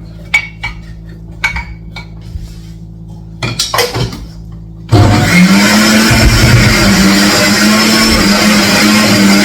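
A few light clinks and knocks of kitchenware, then about halfway through an electric blender switches on suddenly and runs loud and steady, its motor hum rising briefly in pitch as it spins up.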